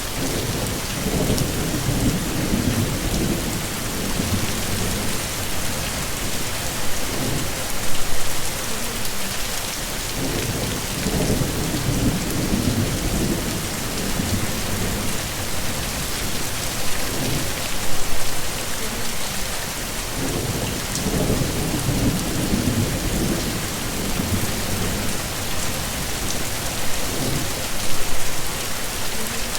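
Heavy rain falling steadily, with low rolls of thunder swelling and fading about every ten seconds.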